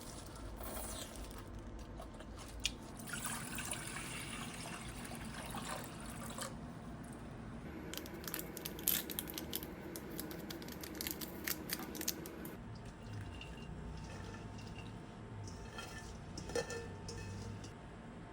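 Water pouring and splashing, with a run of sharp clicks and knocks in the middle.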